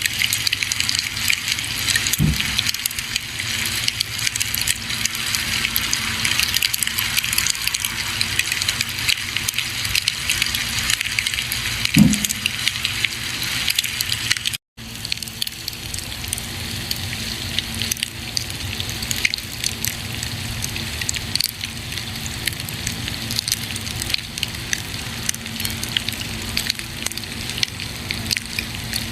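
Campfire burning with a steady, dense crackle and hiss, with two low pops, one a couple of seconds in and one about twelve seconds in. The sound cuts out for an instant about halfway through, then resumes.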